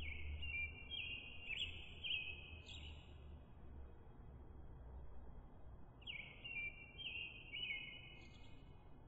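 High-pitched bird-like chirping: two runs of quick chirps with sharp jumps in pitch, one in the first three seconds and another from about six seconds in, over a faint low hum.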